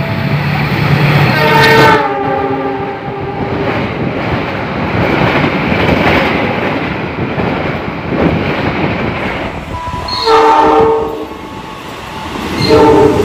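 Train horns sounding in several blasts, a chord of notes each time: one in the first two seconds, another about ten seconds in and a third near the end. Between them comes the rushing noise and wheel clatter of trains passing close by on the rails.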